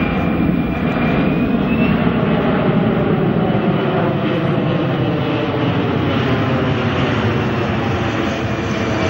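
Boeing C-17 Globemaster III's four Pratt & Whitney F117 turbofans running loud and steady as the jet flies a display pass, with a thin high whine that rises slightly and fades about two seconds in.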